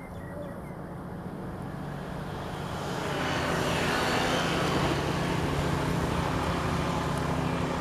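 A motor vehicle's engine running with a steady hum, growing louder about three seconds in and staying loud.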